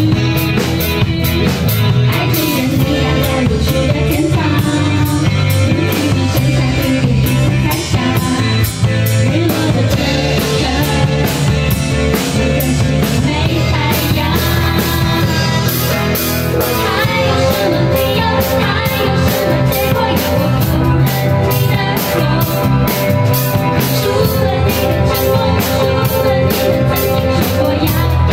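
A live band playing a rock-style song, with drum kit keeping a steady beat, guitar and a singing voice.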